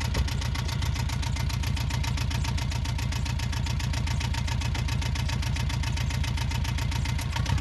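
Yanmar 2GM two-cylinder marine diesel running steadily with a fast, even clatter, getting louder right at the end. It is being run up to test for an intermittent knocking and violent shaking fault.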